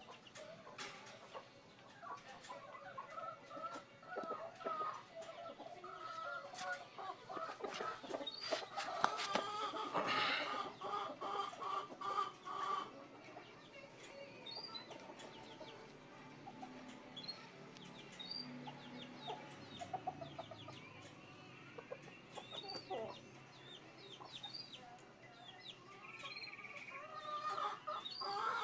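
Chickens clucking on and off, busiest in the first half and again near the end, with scattered short high chirps.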